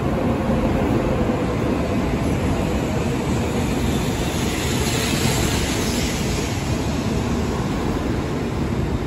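Shinkansen bullet train slowing as it runs into the station platform: a steady rumble and rush of wheels on rails and passing cars, with a louder hiss about halfway through.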